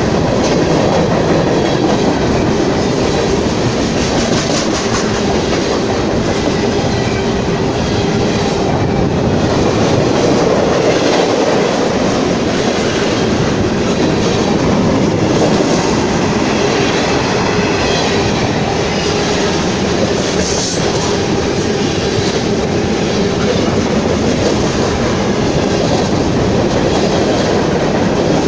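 Railroad cars rolling past close by: a steady, loud noise of steel wheels on the rails, unchanged for the whole stretch.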